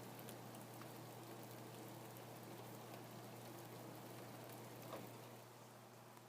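Faint, steady rain falling, with scattered single drops ticking through it.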